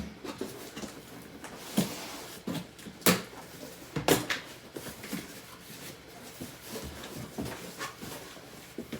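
A few sharp knocks and clicks as unboxed cookware pieces and packaging are handled and set down, loudest about two, three and four seconds in, with quieter handling noise between.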